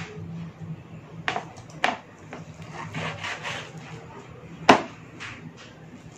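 A knife cutting through chunks of pork on a wooden cutting board: scraping, sawing strokes and a few sharp knocks of the blade on the board, the loudest knock about three-quarters of the way in.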